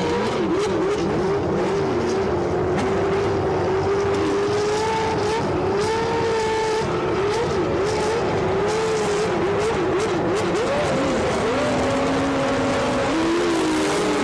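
Several Formula One cars of the 1989 season, with naturally aspirated 3.5-litre engines, running together. Their overlapping pitches rise and fall with throttle and gearchanges.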